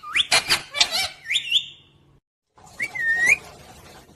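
Pet parrot making a quick series of short whistles and squawks that glide up and down in pitch. After a brief gap it gives one longer whistle that dips and then rises, about three seconds in.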